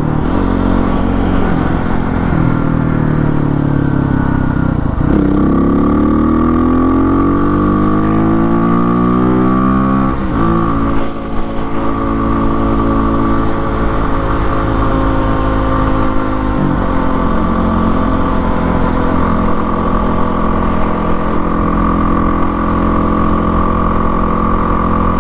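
Kawasaki KLX300R's single-cylinder four-stroke engine under way, breathing through an FMF PowerCore exhaust with quiet insert and an open airbox. It accelerates and shifts up through the gears: the pitch climbs, drops at upshifts about five and ten seconds in, changes again near seventeen seconds, then holds steady at cruising speed.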